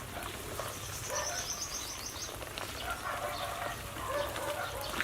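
Backyard birds calling: a rapid high trill of quick repeated notes lasting about a second, starting a second in, with a few lower calls later.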